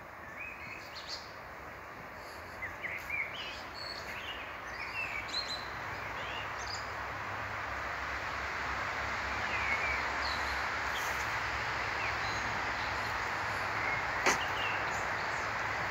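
Small birds giving short chirps over a steady rushing noise that grows gradually louder, with one sharp click near the end.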